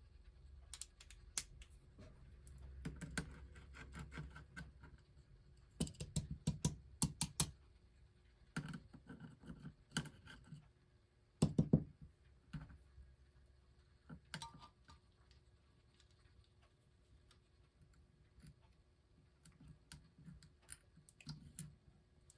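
Irregular small clicks and taps of a wrench and small metal parts being handled on a record player's mechanism, in bursts with quieter gaps.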